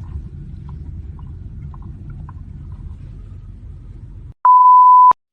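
Car cabin rumble of engine and road noise while driving. About four seconds in it cuts out, and a loud, steady, high electronic beep follows, a single pure tone lasting under a second that ends in a click.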